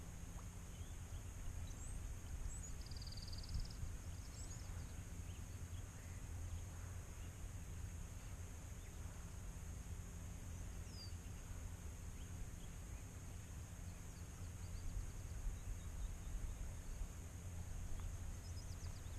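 Steady riverside ambience: a low rumble under a constant high hiss, with a few faint bird chirps about three seconds in and again around eleven seconds.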